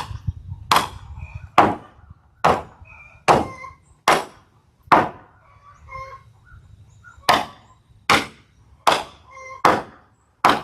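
Steady hammer blows, about one a second: seven strikes, a pause of a couple of seconds, then five more. Chickens clucking between the blows.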